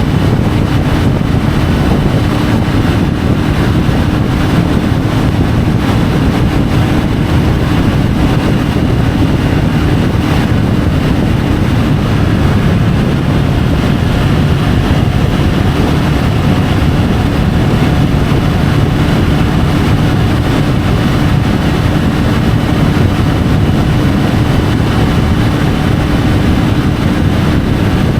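Triumph Tiger 850 Sport's three-cylinder engine running steadily at cruising speed, mixed with wind rush on the bike-mounted camera.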